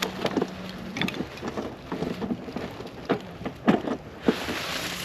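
Irregular splashing and patter of water, with small knocks, as a duck hunter wades out through the marsh to retrieve a wounded duck.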